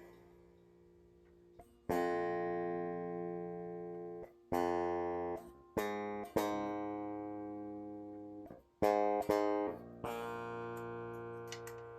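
Strings of a Solar 27-inch baritone electric guitar with an Evertune bridge picked about seven times, starting about two seconds in, each note or chord ringing and dying away. The strings are being tried out while the action (string height) is set.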